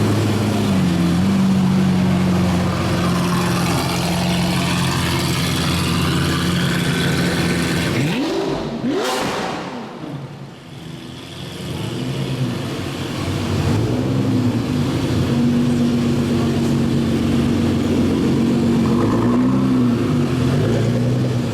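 Supercar engines running at a low, steady pitch. About eight seconds in, one revs sharply with a quick rise in pitch, then the sound drops away briefly before steady engine running resumes, with small rises and falls in pitch near the end.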